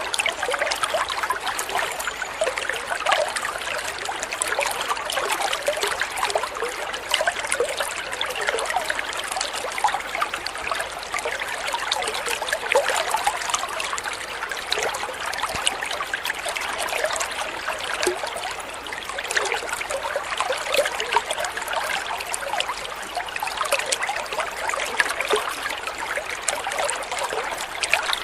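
Water trickling and splashing steadily, a continuous gurgling burble of many small drips and splashes.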